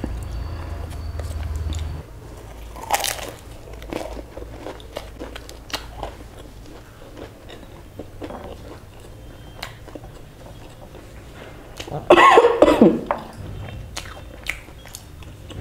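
Chewing and biting a crisp fried samosa, with crunches and wet mouth sounds picked up close by a clip-on microphone. A louder run of crunching comes about twelve seconds in.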